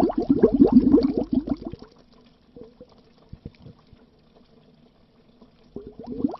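Bubbles gurgling under water: a dense, rapid run of bubble pops that stops about two seconds in. A few scattered single pops follow over a quiet stretch, then the bubbling starts up again faintly near the end.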